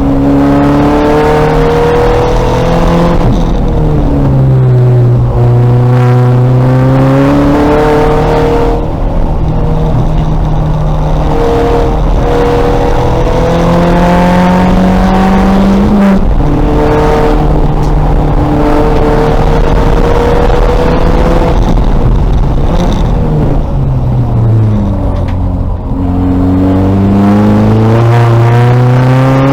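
VW Golf race car's engine pulling hard through the rev range. Its pitch climbs steadily and drops sharply at each upshift, and it falls away under braking and downshifts a few seconds before the end before accelerating again.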